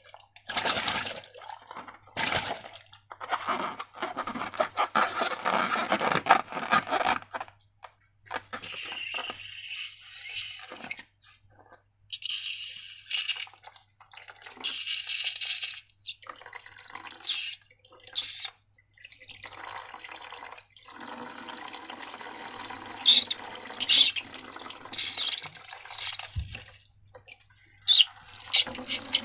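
Slime being squeezed and poured: wet squelching and dripping in irregular bursts, with a few sharper crackles near the end.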